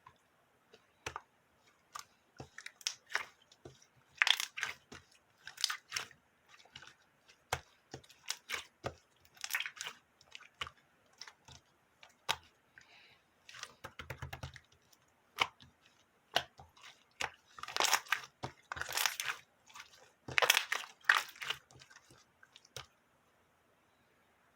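Aurora slime being squeezed and stretched by hand, making irregular sticky clicks and crackling pops, with several louder squishy bursts lasting a second or so.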